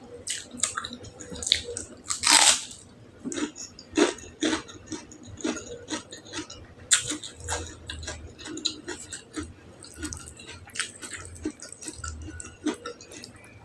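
Close-miked eating: a person chewing food with wet mouth clicks and smacks at an irregular pace, with one louder burst a little over two seconds in.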